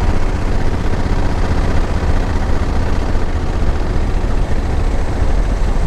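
2021 Honda Africa Twin's 1084 cc parallel-twin engine running steadily as the motorcycle is ridden, a heavy low engine note under a spread of road and wind noise.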